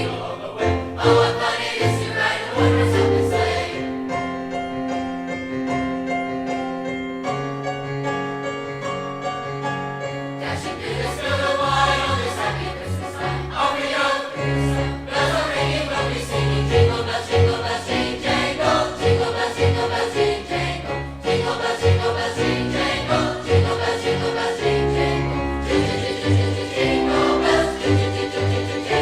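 A large high school choir singing a Christmas concert piece, holding long sustained chords from about four to ten seconds in before the voices move again.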